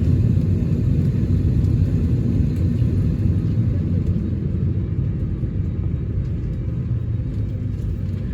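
Steady low rumble inside an Airbus A321neo cabin on the ground, as the start of engine No. 1 gets under way; the higher airy hiss fades a little about halfway through.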